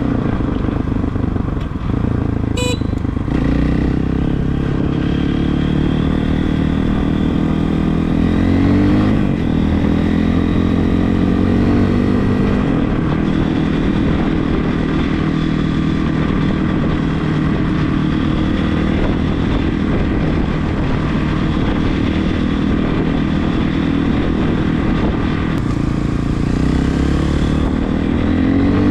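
Regulmoto TE enduro motorcycle's engine running under way, its pitch rising as it revs through the gears and dropping back at the shifts, several times. A brief high beep sounds about two and a half seconds in.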